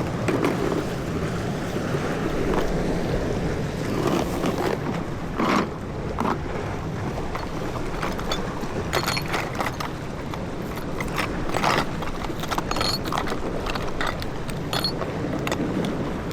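Wind and water noise aboard a small boat at sea, with scattered clicks and knocks, most of them in the second half.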